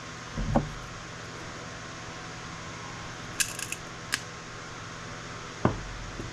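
Circuit boards being handled and stripped of components: a dull thump about half a second in and another near the end, with a quick run of sharp clicks a little past the middle, over a steady background hum.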